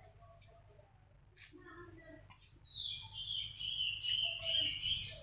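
A bird chirping in a rapid, high-pitched, wavering twitter for about two and a half seconds, starting a little past halfway.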